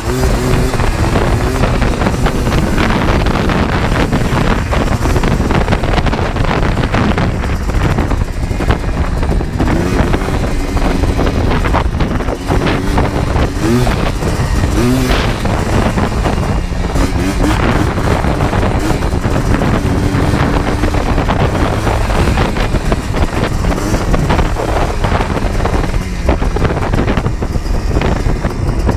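ATV engine running under way, its pitch rising and falling repeatedly as it revs and shifts, with wind buffeting the microphone.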